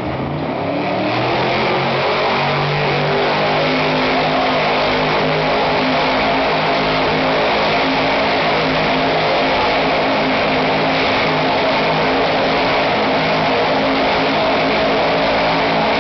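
Monster truck engine revving up over the first couple of seconds, then held at high revs during a burnout, with the steady noisy wash of the spinning tyres over the engine's note.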